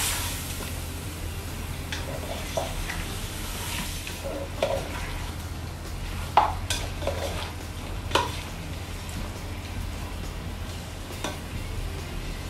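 Chicken pieces sautéing in hot oil with garlic and onion in a pot, sizzling steadily while a spatula stirs them. The spatula scrapes and knocks against the pot every second or two. A steady low hum runs underneath.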